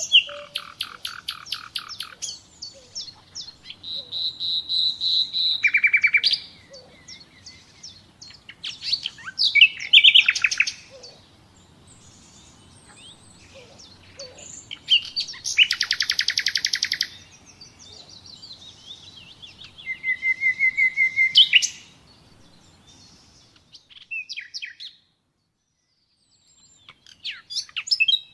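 Common nightingale singing: a string of varied phrases with short pauses between them, including fast rattling trills and runs of repeated whistled notes that grow louder. The song stops for a couple of seconds near the end, then resumes.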